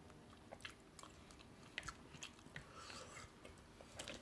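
Faint close-up chewing of a mouthful of beef pot pie: soft, irregular mouth clicks and smacks.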